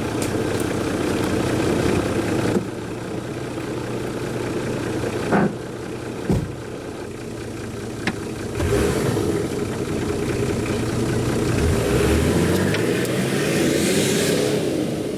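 A 4x4 off-road vehicle's engine running as it drives, with a few short knocks in the first half and the revs climbing several times in the second half.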